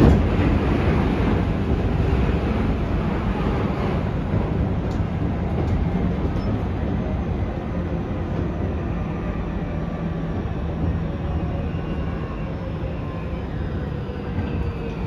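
Running noise heard inside a Yokohama Minatomirai Railway Y500 series electric train car: a steady wheel-and-rail rumble with a brief louder burst right at the start. From about six seconds in, a faint whine from the Hitachi IGBT VVVF traction drive slowly falls in pitch as the rumble eases.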